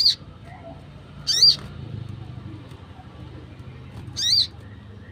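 Wild sogon (sunbird) calling: three short, sharp high chirps, the first at the very start, the second about a second and a half in and the last near the end, each a quick up-and-down note.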